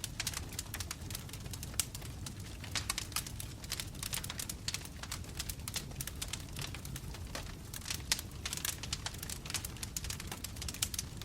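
Wood fire burning in a fireplace, its logs crackling with many rapid, irregular pops and snaps over a low steady rumble.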